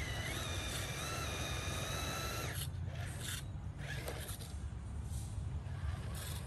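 Small RC truck's electric motor whining steadily for about two and a half seconds, then cutting off, over a constant low rumble, with a few short knocks afterwards as the truck works over rough ground.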